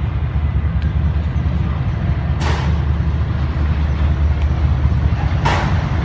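GE U40 diesel-electric locomotive running with a steady, deep engine rumble. Two short hissing bursts come about three seconds apart.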